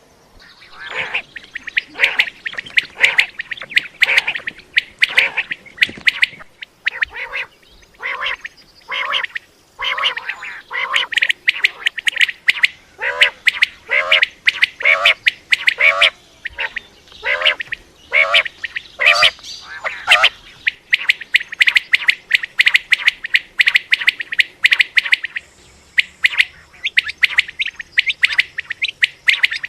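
Common quail calling over and over, a fast run of short, sharp notes with only brief pauses.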